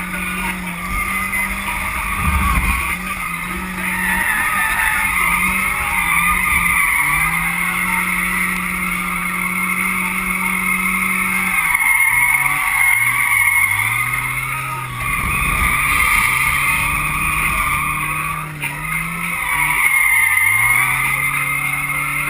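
Drift cars (Nissan 240SX S13 and S14, Lexus IS300) sliding in tandem. The engines are held at high revs, with the pitch dipping and climbing again as the throttle is worked, over a continuous screech of sliding tyres.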